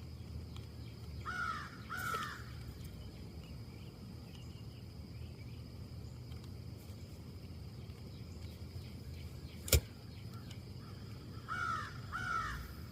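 A bird calls in quick pairs of short arched calls, once early and again near the end, over a steady low rumble. A single sharp click, the loudest sound, comes a little before the second pair.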